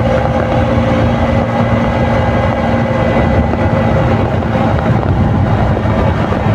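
KTM RC 200's single-cylinder four-stroke engine running through its stock exhaust at a steady cruise, its note holding a constant pitch.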